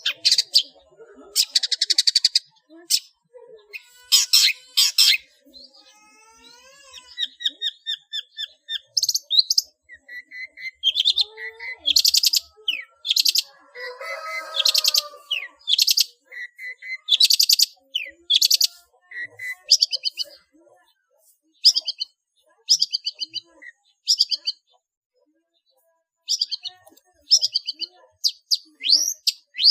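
Long-tailed shrike (cendet) singing a rapid, scratchy song packed with mimicked calls of other birds. It comes in short bursts of quickly repeated notes with brief gaps between them and a longer pause near the end.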